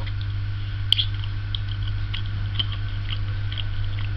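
A person biting into and chewing a frozen chocolate cream daifuku (mochi rice cake), with a sharp click about a second in and small scattered mouth clicks. A steady low hum runs underneath.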